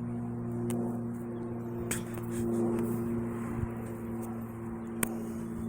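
A steady, even machine hum, with a couple of light clicks.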